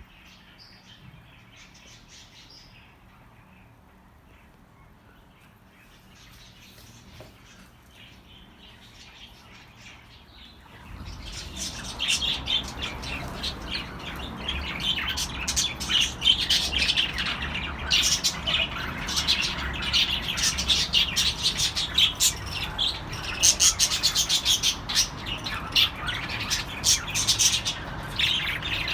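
Budgerigars chirping and chattering, faint at first; about eleven seconds in, many birds break into loud, dense, rapid chirping and squawks that carry on to the end, over a low steady rumble.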